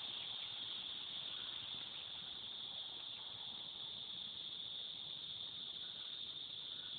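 Cicadas singing in a steady chorus, an unbroken high-pitched buzz that is really loud.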